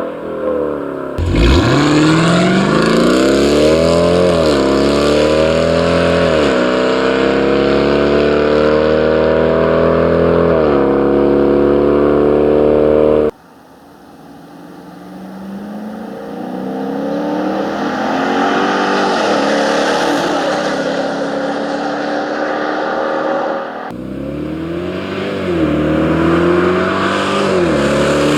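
Dodge Durango's 5.7-liter Hemi V8 through a Stainless Works stainless catback exhaust, accelerating hard through the gears. The pitch climbs and drops back at each upshift, in three takes joined by abrupt cuts; the second opens quieter and builds.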